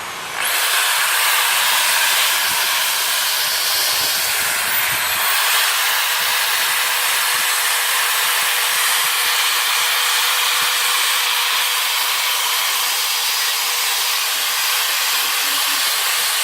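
A loud, steady hiss that starts about half a second in and carries on without a break until near the end.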